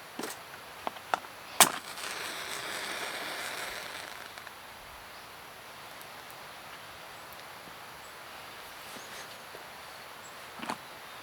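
A few sharp snaps or knocks, the loudest about a second and a half in, then about two seconds of rustling hiss, then a quiet outdoor background with one more faint click near the end.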